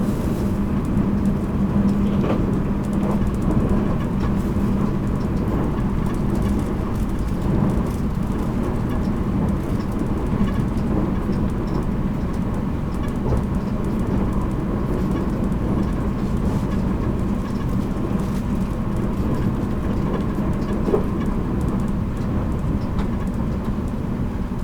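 Running noise inside a JR Kyushu 783 series electric train's motor car at speed: a steady rumble of wheels on the rails with a low motor hum that fades about two to three seconds in.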